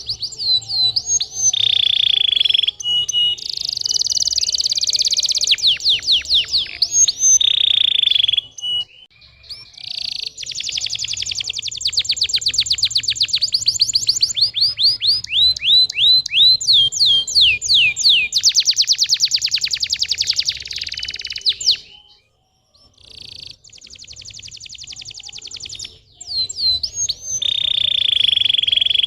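Domestic canary singing a long, loud song of rapid trills and rolls, fast runs of repeated notes, with a short break about two-thirds of the way through. It is a stimulus song of the kind played to coax young canaries into singing.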